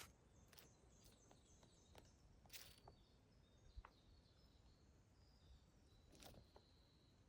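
Near silence, with faint, high-pitched bird chirps and a few soft ticks.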